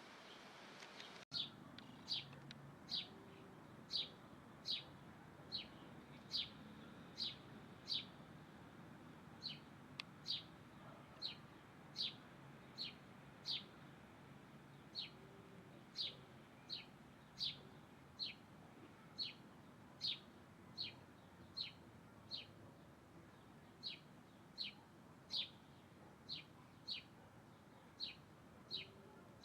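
A bird calling repeatedly: a long series of short, high chirps, each sweeping downward, at a bit more than one a second with a few brief pauses. The chirps start after a brief dropout a little over a second in.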